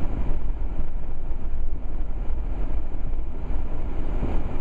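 Steady low rumble of a four-wheel-drive vehicle driving through snow, engine and tyre noise heard from inside the cabin.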